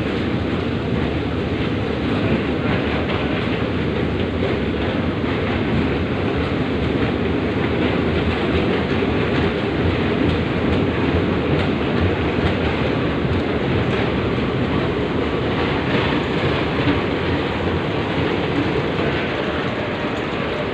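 Subway train running, a steady noise of wheels on the rails with some clickety-clack.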